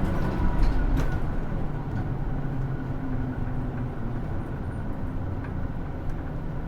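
Cabin sound of a Hino Rainbow II city bus, with a steady low diesel rumble and road noise and a single click about a second in. The sound eases a little after about two seconds.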